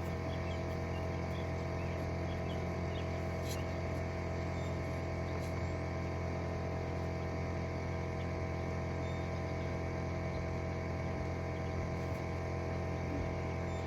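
Evinrude 70 HP two-stroke outboard motor idling steadily on water muffs.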